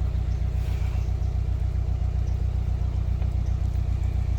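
Narrowboat's diesel engine idling with a steady, even low beat.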